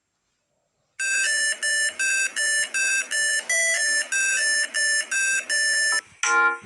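Electronic beeping melody: after a second of silence, a run of short, steady synthesized notes, about two and a half a second, stepping up and down in pitch. Near the end a different series of shorter, lower tones starts.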